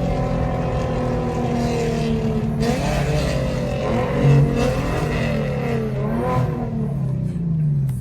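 Straight-piped Infiniti G37xs V6 exhaust while driving. Its pitch sags slowly at first, then rises and falls several times as the car speeds up and eases off.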